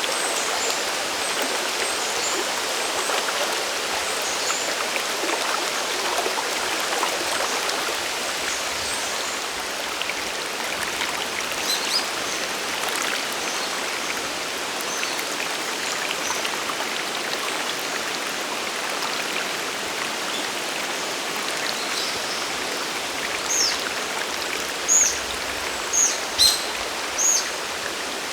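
Steady rush of a mountain waterfall and stream. Near the end a bird gives about five short, high calls.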